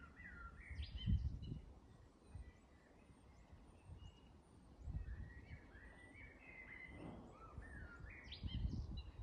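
Small birds chirping and singing in short, gliding phrases, at the start and again in the last few seconds, over faint outdoor background noise with a few low rumbles.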